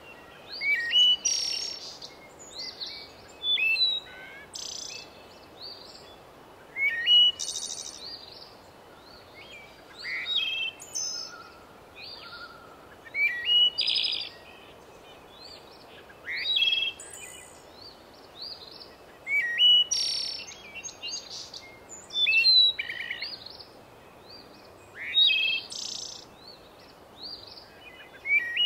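Birds chirping and singing, short bright calls and trills coming every second or two.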